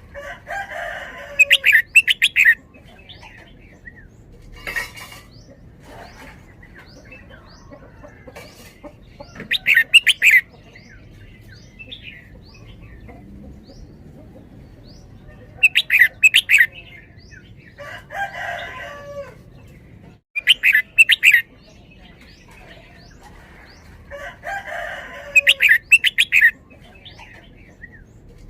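Red-whiskered bulbul singing loud, short song phrases, about seven of them, repeated every few seconds in the doubled 'beun-beun' style.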